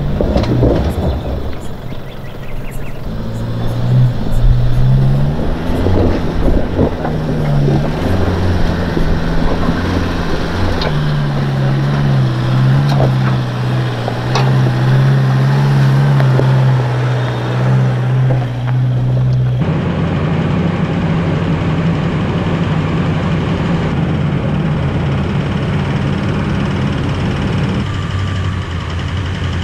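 Isuzu MU-X's turbo-diesel engine running as the vehicle crawls slowly over a rutted dirt track, its note rising and falling. After a cut about two-thirds of the way through, it gives way to a four-wheel drive's engine idling steadily.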